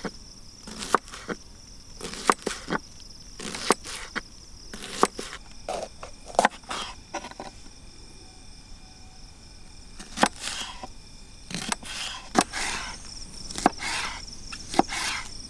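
A hatchet chopping firewood: sharp knocks about every second or so, a few doubled. Crickets chirr steadily underneath.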